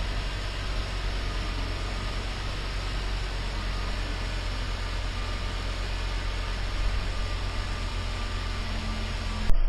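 Car engine idling steadily as it warms up, a constant low hum under an even hiss. A sharp click near the end.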